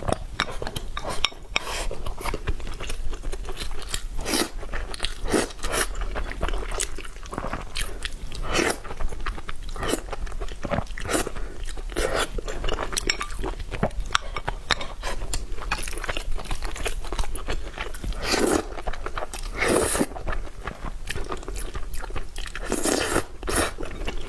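Close-miked chewing and biting of crunchy food, with many irregular crisp crunches throughout.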